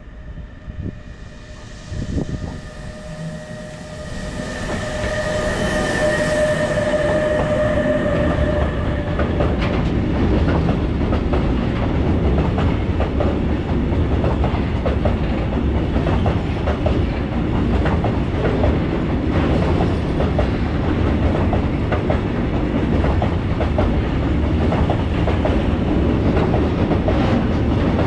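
Freight train passing close by. A steady whine from the approaching locomotive grows louder over the first few seconds. It gives way to the continuous rumble and rhythmic clatter of the wagons' wheels over the rail joints.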